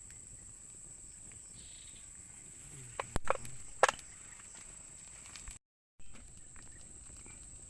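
Outdoor insect chorus: a steady high-pitched buzz. A few sharp knocks and clatters come about three to four seconds in, and the sound drops out completely for a moment shortly after.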